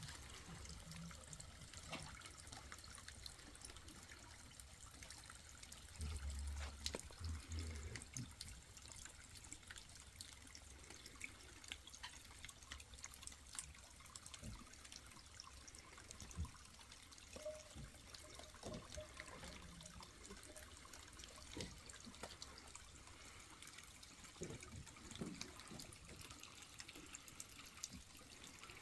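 Faint trickling and dripping water, with scattered small clicks and a brief low rumble about six seconds in.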